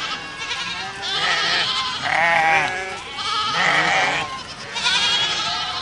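A herd of goats bleating, several wavering calls overlapping and following one after another.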